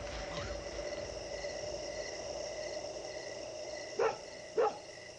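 A steady drone of several held tones with faint repeated chirps. Near the end come two short, loud, rising animal yelps about half a second apart.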